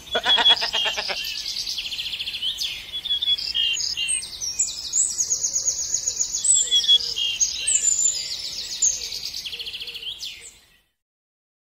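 A short quavering bleat in the first second, then birds chirping and singing in many quick, high trilled phrases. The birdsong stops suddenly about a second before the end.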